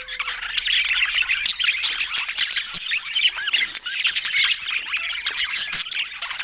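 A flock of budgerigars chattering together: many short overlapping chirps and squeaks in a steady, dense stream.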